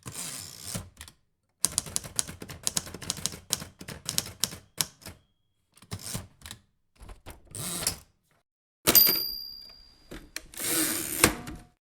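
Keys of a Hermes Baby portable manual typewriter striking in quick, irregular runs, thinning out after about five seconds. About nine seconds in, a typewriter's margin bell rings once, and then the carriage is pushed back with a rattling slide that ends in a click.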